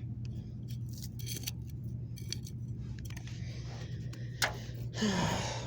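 Small scratches and scrapes of digging away soil by hand around a buried toy truck and its box, with one sharper click about four and a half seconds in, over a steady low hum.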